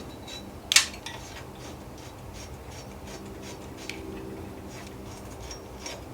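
Wires being dragged through a motorcycle frame tube: faint scraping and rubbing, with one sharp click a little under a second in.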